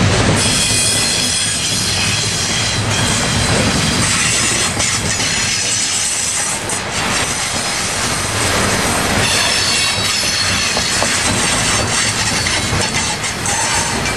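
Freight train cars rolling past: steel wheels running and clattering over the rails, with thin high-pitched wheel squeal.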